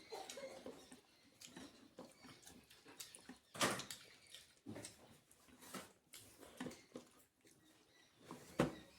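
Close-miked eating: chewing and wet mouth smacks, with scattered sharper clicks and taps. The loudest smack comes about three and a half seconds in and another near the end.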